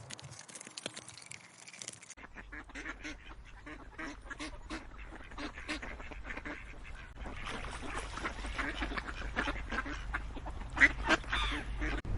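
Ducks and geese calling, a run of short quacking and honking calls that repeat several times a second. The calls grow denser after about seven seconds, with one louder call near the end.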